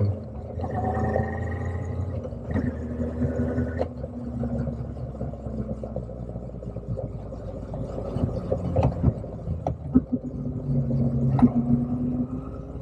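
Motorcycle engine on the move, its revs dropping sharply at a gear change at the start, then running at lower revs with the pitch slowly sagging before rising again near the end. A few sharp ticks come through along the way.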